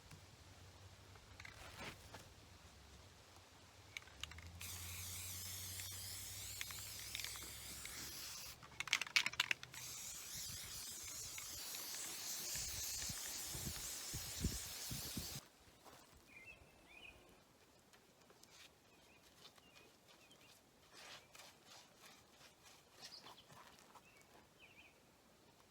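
Aerosol spray paint can hissing steadily for about ten seconds, broken briefly near the middle by a few sharp clicks, then cutting off suddenly. Only faint small sounds follow.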